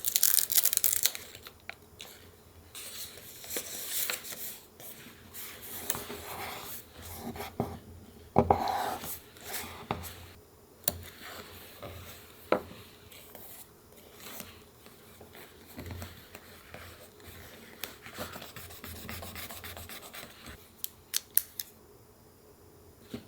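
Scissors cutting paper, with paper handled and rustled between cuts, and a quick run of sharp clicks near the end.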